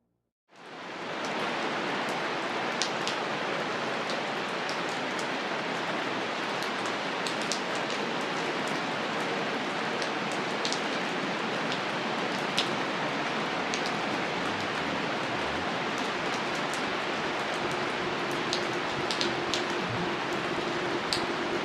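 Steady rainfall: a dense, even patter with distinct drops ticking through it. It fades in quickly after a moment of silence at the start. A faint steady tone joins it over the last few seconds.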